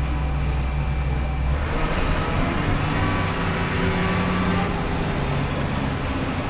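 A steady vehicle-like rumble, changing about a second and a half in to a rougher, noisier sound.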